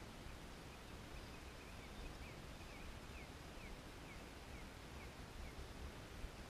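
Faint outdoor hiss with a bird calling: a run of short falling chirps, two or three a second, starting about a second in and stopping a little after five seconds.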